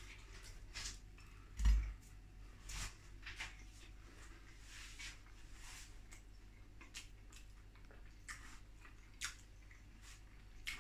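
Faint wet chewing and lip smacks of a person eating a buttered toast sandwich, with scattered small mouth clicks and a low thump about two seconds in.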